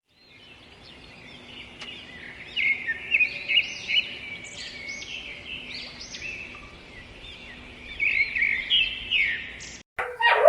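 Birds chirping: many short, repeated high chirps that come thickest about three seconds in and again near the end.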